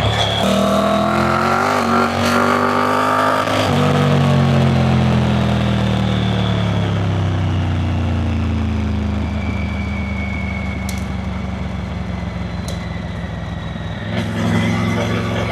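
Triumph Tiger 900 Rally Pro's three-cylinder engine under way: the revs rise and the pitch drops a little under four seconds in with an upshift, then falls steadily as the bike slows, runs lower and evener, and picks up again near the end.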